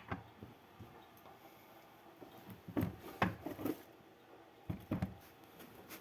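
Metal engine parts being handled on a bench: a few short knocks and clinks in a cluster about three seconds in, and another pair near five seconds.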